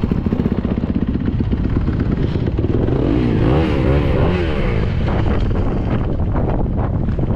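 Yamaha YZ250 two-stroke motocross engine running, revving up and down in quick blips between about three and five seconds in.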